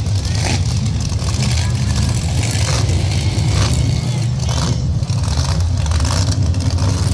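Monster truck engines running, a loud, steady, deep engine noise with scattered sharp sounds on top.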